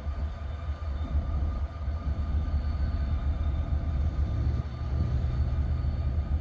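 Freight train's diesel locomotive idling: a steady, pulsing low rumble with faint steady tones over it, and a low hum joining about four seconds in.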